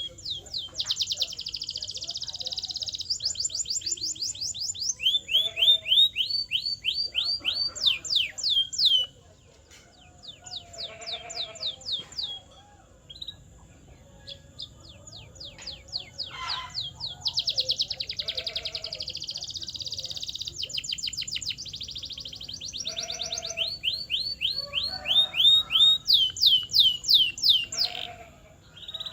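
Canary singing: a long song of rapid trills, each built from fast repeated downward-sweeping high notes, phrase after phrase. A quieter, broken-up stretch comes about a third of the way in before the trills pick up again.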